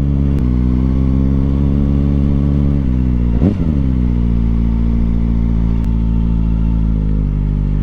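Kawasaki ZX-4RR's inline-four engine running at low, steady revs, with a brief dip and recovery in pitch about three and a half seconds in.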